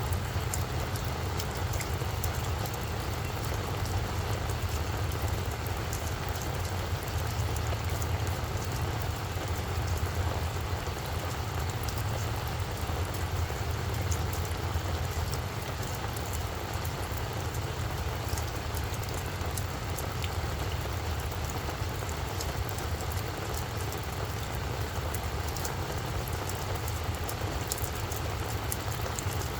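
Steady rain falling, with many small sharp drop ticks over a continuous low rumble.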